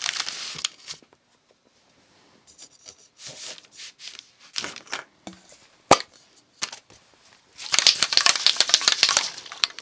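Aerosol can of rubberized rocker guard being handled, with soft rustles and one sharp click, then shaken hard for about two seconds near the end, its mixing ball rattling rapidly.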